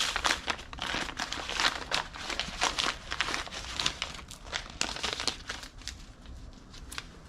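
Packaging crinkling and rustling as it is handled and opened to get at new timing chains, dense for most of the time and thinning out near the end.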